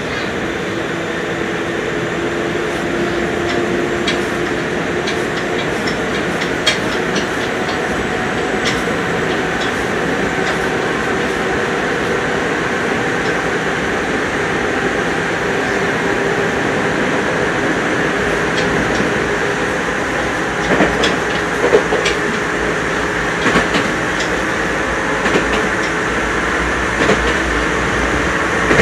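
Nagoya Municipal Subway 3000 series chopper-controlled electric train running at speed through a tunnel, heard from inside the car: a steady running rumble with whining tones, and wheel clicks on the track that come more often in the last third.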